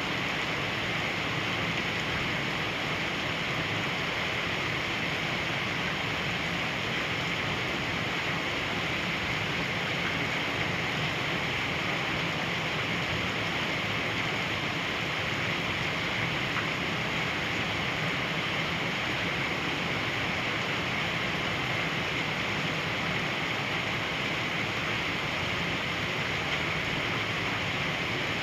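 Heavy rain falling in strong wind, a dense, even hiss that pours on without a break.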